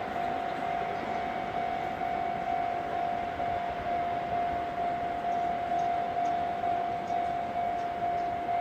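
Japanese railway level-crossing warning bell sounding one steady, gently pulsing tone, over the running noise of a passing Enoden train.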